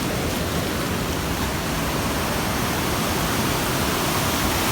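Steady roar of rushing water from a large mountain waterfall and stream, an even wash of noise with no breaks.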